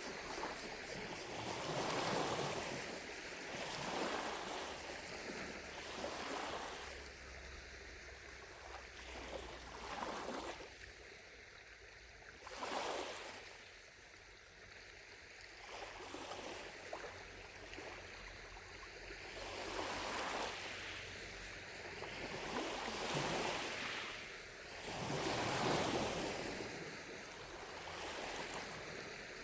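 Small lake waves lapping against the shore, washing in and receding in soft swells every two to three seconds.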